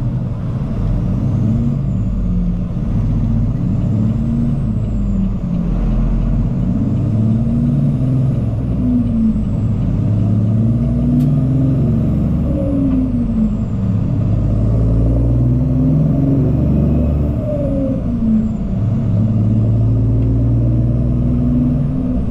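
Cummins ISX diesel engine of a Peterbilt 379 semi truck pulling away. Its pitch climbs and drops back about eight times as it shifts up through the gears.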